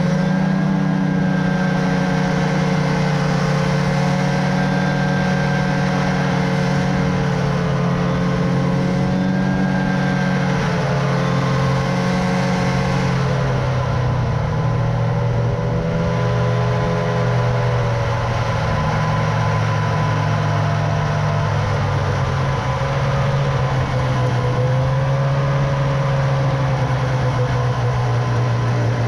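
An engine running steadily under way, its pitch drifting slowly up and down.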